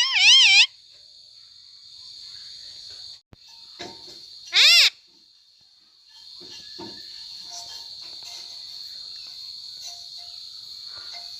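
A parrot gives one loud, short call about halfway through, rising and then falling in pitch. Behind it runs a steady high drone of crickets or other insects. A short warbling, wavering tone sounds at the very start.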